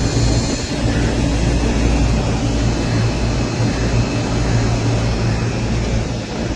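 HVAC equipment running steadily: a low, even machine hum with a rush of moving air over it.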